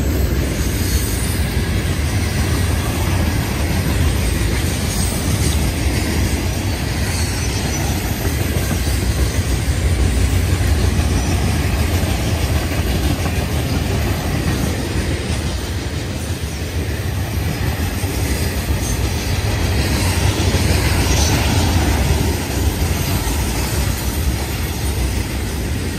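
Florida East Coast Railway freight train of hopper cars passing at speed: a steady rumble and clatter of steel wheels on the rails.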